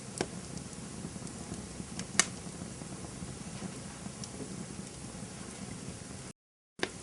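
Campfire burning with a steady low hiss and sparse small crackles, with two sharp pops about a fifth of a second in and about two seconds in, the second the louder. The sound cuts out completely for about half a second near the end.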